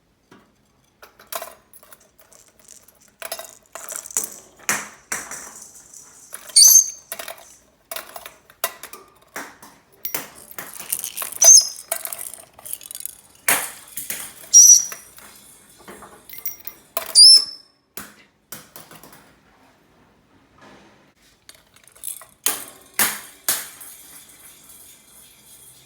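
Toy balls clattering and knocking in irregular taps, with four short high chirps from a green-cheeked conure as it plays.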